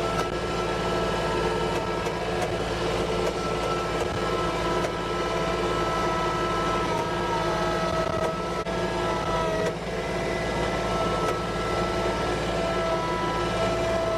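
A vehicle engine running steadily, with several steady whining tones held over its low rumble.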